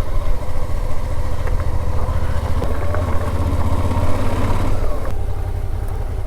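Motorcycle engine running at low speed, with the throttle opened a little about halfway through and eased off again about five seconds in.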